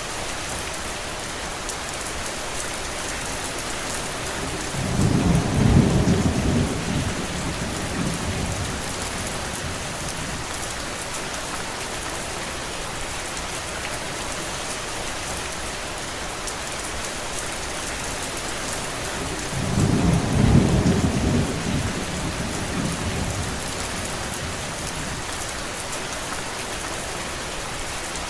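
Steady rain, with two low rolls of distant thunder, each lasting a few seconds, about five seconds in and again about twenty seconds in.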